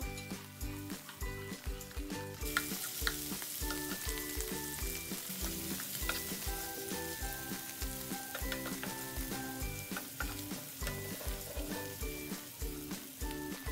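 Garlic, onion, canned tuna and tomato sizzling as they sauté in olive oil in a frying pan, stirred with a wooden spatula; the sizzle grows louder and brighter about two and a half seconds in. Background music with a steady beat plays underneath.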